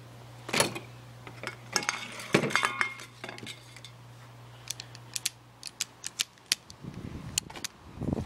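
Metal screwdrivers clinking and clattering as they are handled, a string of sharp metallic clicks, some briefly ringing, with a faint low hum underneath that stops about seven seconds in.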